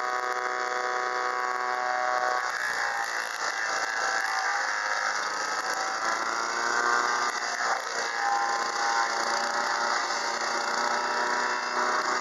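Home-made wood chipper driven by a Bolens 1050 garden tractor's engine, running steadily. From about two seconds in, a rough chipping noise joins the engine, and the engine note dips and recovers as the chipper takes load.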